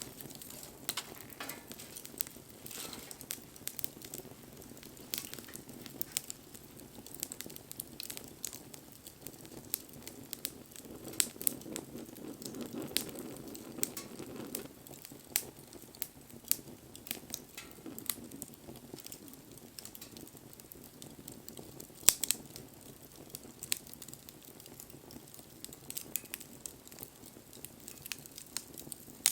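Bonfire crackling, with frequent sharp pops of varying strength, the loudest about 22 seconds in, and a soft low rush of flame in the middle.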